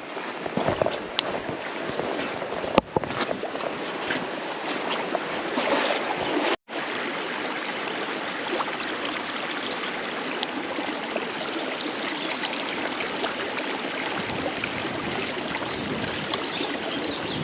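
Flowing creek water rushing steadily, with a few handling knocks in the first few seconds and a brief dropout about six and a half seconds in.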